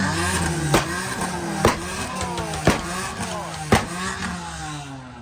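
A car engine revved about four times in quick succession, the pitch climbing and falling each time, with a sharp crack at each rev.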